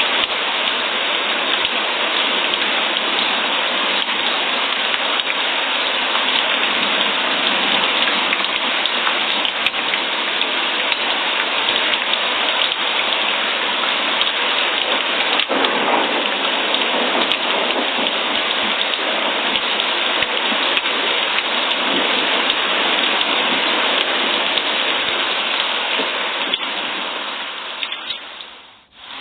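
Steady heavy rainfall, a dense even hiss with scattered sharp drop ticks. It fades out over the last few seconds.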